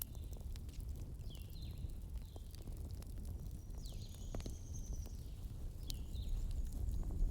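Fireplace fire burning: a steady low rumble with scattered crackles and pops. A handful of short, high chirps that drop in pitch come through at intervals.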